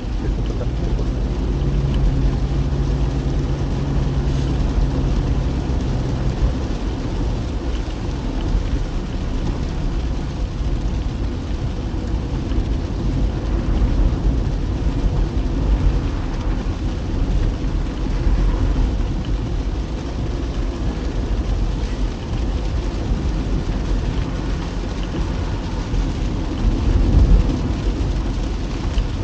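Car driving in rain: a steady low rumble of road and engine under the hiss of rain. A steady engine drone stands out for a few seconds near the start.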